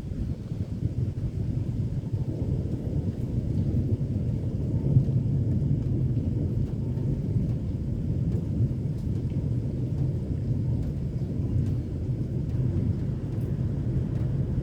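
Thunder from a close, very active storm rolling as one continuous low rumble, with no clear breaks.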